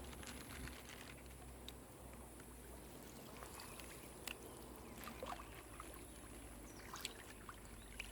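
Faint water trickling and dripping with scattered small ticks and splashes as a fishing net is drawn out of the water, over a steady faint high hiss.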